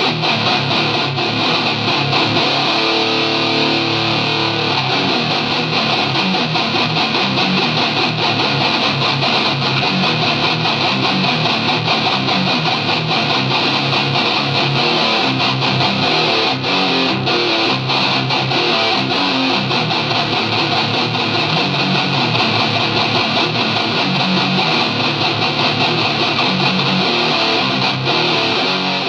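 Heavily distorted electric guitar playing fast, chugging death-metal rhythm riffs through an ART DST 8080's Extreme preamp setting, a pretty brutal rhythm tone.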